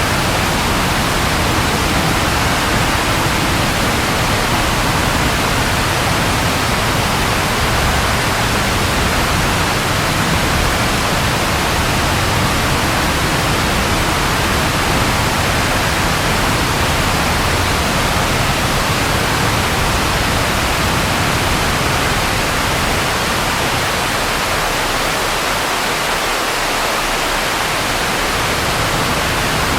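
Steady, heavy rain: a dense, even hiss with no separate drops or claps standing out.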